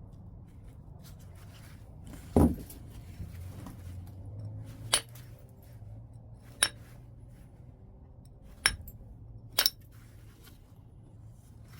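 Flintknapping on white chert: a series of sharp, glassy clicks as flakes are struck off the stone, irregularly spaced a second or two apart. The first strike, about two and a half seconds in, is heavier and duller than the rest, and one near the end comes as a quick double click.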